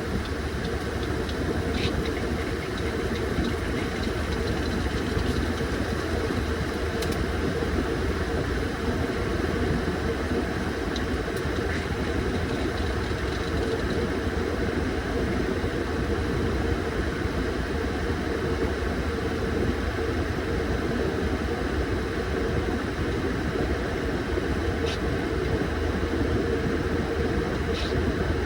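Washing machine running mid-cycle: a steady motor hum with a held tone and low rumble, with a few faint clicks now and then.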